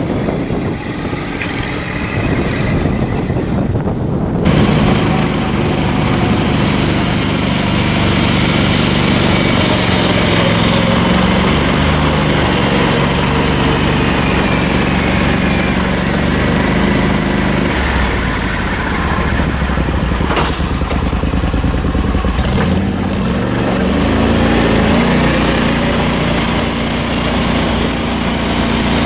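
An engine running at a steady throttle, its note settling in about four seconds in and wavering and dipping a few times.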